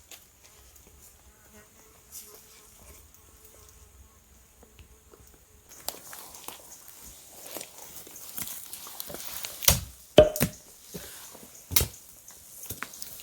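Footsteps and brush rustling as someone pushes through thick undergrowth, with several sharp twig snaps, the loudest about ten and twelve seconds in. Before that, only a faint wavering buzz.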